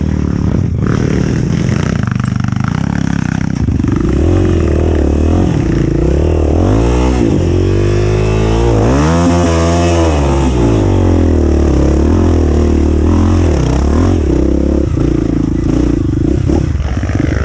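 Dirt bike engine revving up and down several times as it works through an off-road trail section, with the revs highest about halfway through.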